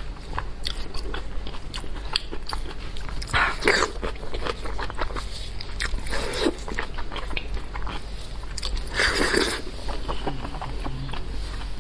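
Close-miked wet chewing and biting of braised pork knuckle with its sticky skin: rapid smacking mouth clicks, with two louder, longer sounds about three and a half and nine seconds in.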